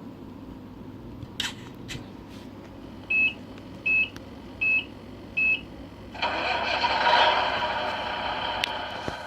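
Radio-controlled Scania R470 model truck's electronic sound: a couple of clicks, four short high beeps about three-quarters of a second apart, then a diesel engine start about six seconds in that settles into running.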